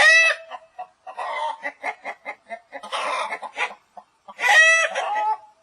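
Domestic hen clucking: a run of short clucks between two louder, drawn-out calls, one at the start and one about four and a half seconds in.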